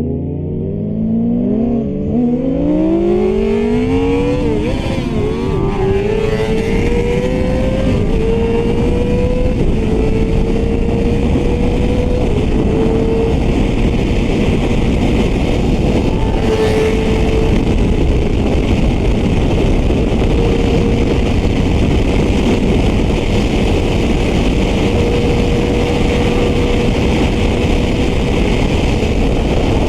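Yamaha R6 inline-four engine accelerating hard. Its pitch climbs for about eight seconds, with a brief wobble partway up, then holds a steady high note at speed.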